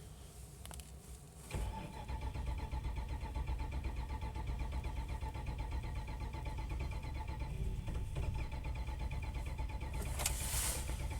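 2011 Ram 1500's 5.7 L Hemi V8 cranking on the starter motor in extreme cold, a steady whining crank that begins about a second and a half in and runs for about ten seconds. The engine almost catches but does not start.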